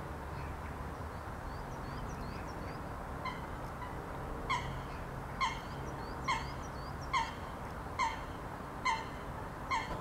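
A bird giving a series of short calls, seven in all about a second apart, starting about halfway through, with faint thin chirps from small birds before them. A steady low rumble underlies it throughout.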